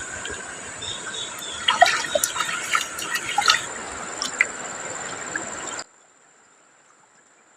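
Water trickling and dripping with a few sharp clicks and drips, cutting off abruptly to near silence about six seconds in.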